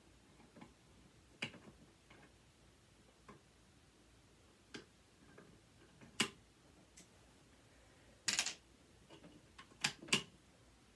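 Scattered sharp clicks and taps of a hand screwdriver and loose metal and plastic parts being handled during disassembly, with a short rattle about eight seconds in.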